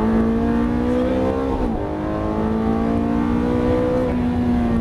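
Ferrari F430's V8 engine heard from inside the cabin, pulling hard with its pitch rising, an upshift dropping the revs sharply about two seconds in, then rising again through the next gear before easing off near the end.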